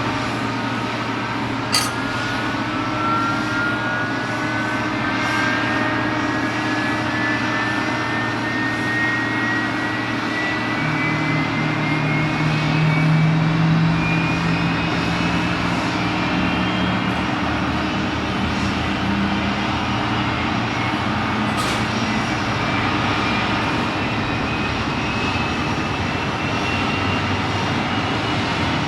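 Jet airliner engines running steadily, with a whine that climbs slowly in pitch throughout. A low hum swells in the middle, and there are two faint clicks.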